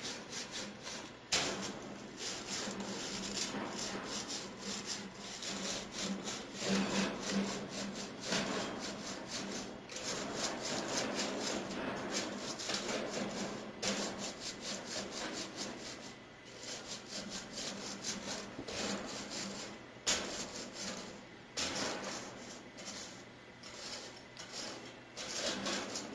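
Scrub brush scrubbing a bird cage, a rapid run of rough, uneven rubbing strokes that pauses briefly now and then.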